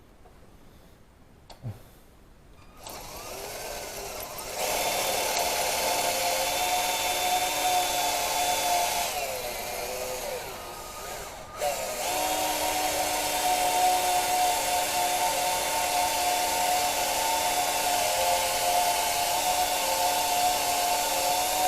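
Electric power drill running in long steady runs: it starts about three seconds in, speeds up a second later, drops away briefly past the middle, then runs on again.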